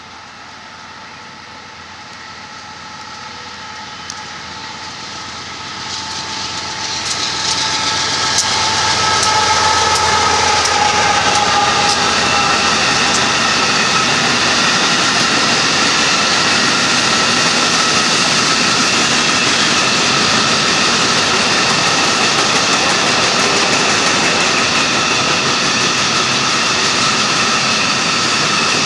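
Union Pacific freight train of empty hopper cars passing: its locomotives grow louder over the first several seconds as they approach and go by, then the empty cars roll past in a steady, loud rumble and rattle of steel wheels on rail, with several steady high ringing tones over it.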